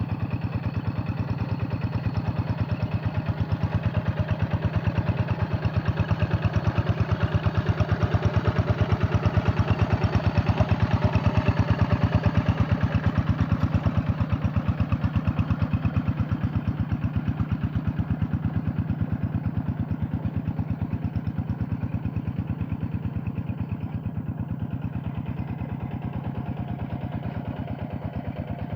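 Hand tractor's diesel engine running steadily with an even, rapid beat, louder in the middle and fading a little toward the end.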